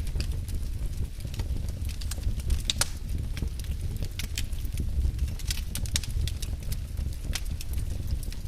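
Wood fire burning in a fireplace: a low, steady rumble of flames with irregular sharp crackles and pops from the burning logs, several a second.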